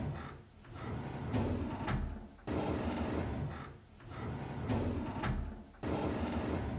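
A drawer being pulled open, over and over about every three seconds: each time a sudden start, a sliding rumble with a short click partway through, then fading out.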